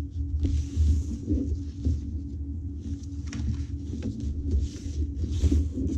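Paper being handled: soft rustles and light taps as a junk journal's cards and pages are turned and moved, over a steady low hum.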